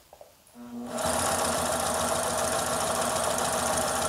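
HDSew PortaWalker industrial walking-foot sewing machine starting up about half a second in and then running at a steady speed, stitching through about four layers of denim.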